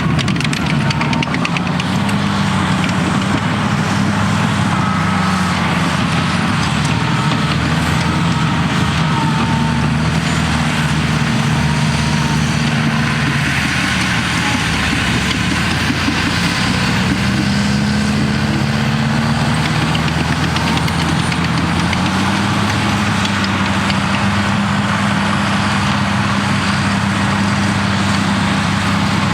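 Cat D6T bulldozer's diesel engine running steadily under load. Its pitch drops and rises again a few times as the dozer works.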